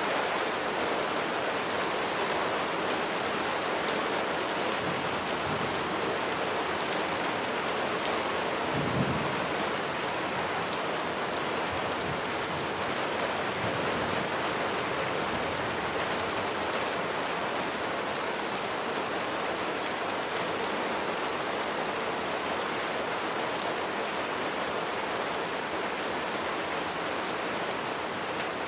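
Steady rain falling on a hard surface, with scattered sharp drop ticks. About nine seconds in, a brief low rumble of distant thunder swells and fades.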